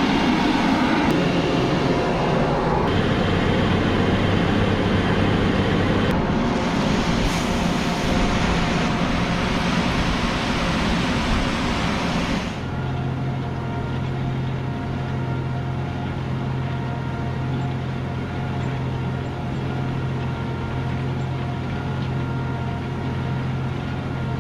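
John Deere 8270R tractor running under load while pulling a Claydon direct drill. For about the first twelve seconds it is a loud, noisy mix of engine and working sound; then it drops abruptly to a quieter, steady engine hum with a low drone.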